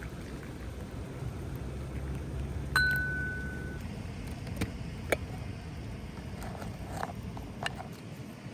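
A few light clinks over a steady low rumble, like tableware knocking together; one clear clink about three seconds in rings on as a single tone for about a second, followed by several fainter ticks.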